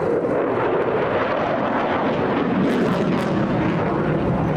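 Eurofighter Typhoon fighter jet flying under power: a loud, steady jet engine rush with no breaks.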